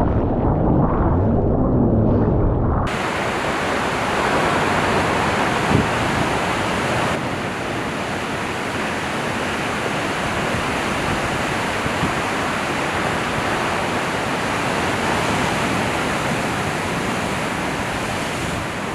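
Big-wave surf and wind rushing over a POV camera's microphone: a muffled low rumble at first, switching abruptly about three seconds in to a steady, full hiss of wind and whitewater.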